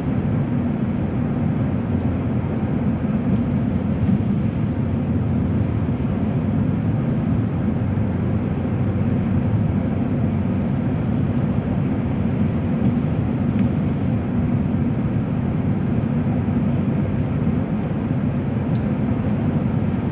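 Steady road and engine noise heard inside a car's cabin while cruising at highway speed, a low, even rumble.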